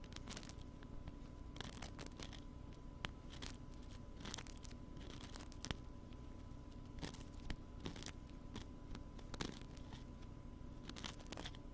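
Wooden ear pick scratching and scraping close against a binaural ear microphone, in irregular crackly strokes over a steady background hum.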